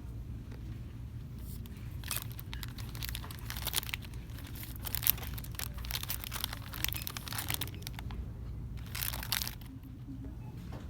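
Crinkly plastic packaging being handled, rustling in a dense run for several seconds, then a shorter burst near the end, over a low steady hum.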